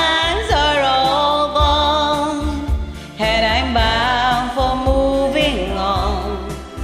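A voice singing long held notes with vibrato over a karaoke backing track, with a new sung phrase starting about three seconds in.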